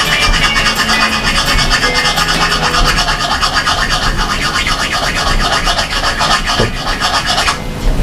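Rapid, rhythmic scratching of a file working burrs off a mountain bike fork stanchion, stopping about seven and a half seconds in.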